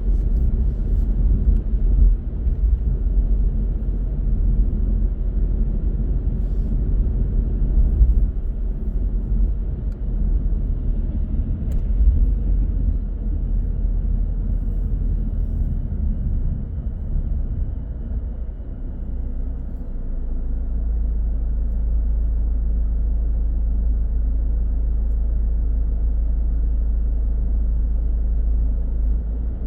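A car driving on city roads: a low rumble of engine and road noise, uneven for most of the time, then settling into an even drone about twenty seconds in.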